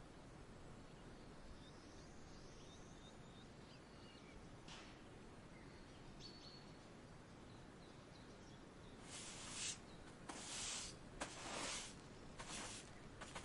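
Quiet outdoor nature ambience with a few faint, distant bird chirps. In the last few seconds come several short rustling bursts, about five of them.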